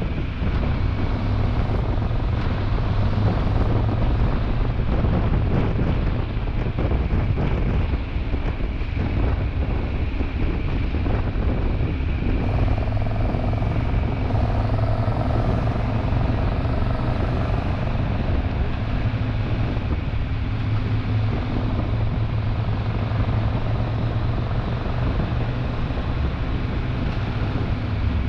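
Triumph Tiger 1200 Rally Explorer's three-cylinder engine droning steadily while riding, under a constant rush of wind noise.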